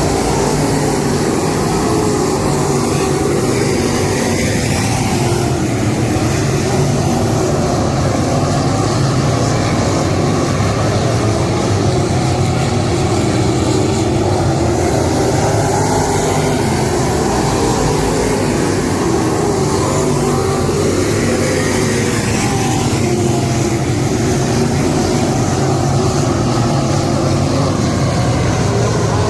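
Dirt-track modified race cars running at speed on the track, a loud, steady blend of engines with cars sweeping past now and then.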